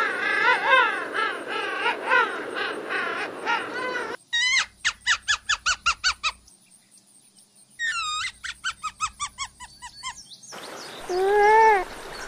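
A juvenile penguin calling in a run of short braying calls that rise and fall in pitch. It gives way abruptly to a meerkat pup chirping in two fast runs of high squeaks, about five a second, with a short quiet gap between them. Near the end a coypu (nutria) gives one loud, drawn-out call, the loudest sound here.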